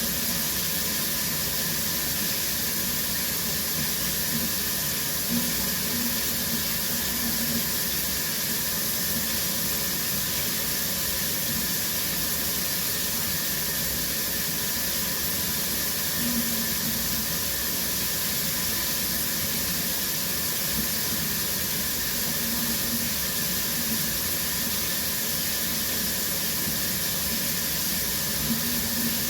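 Shower running steadily, its water spraying down in an even hiss.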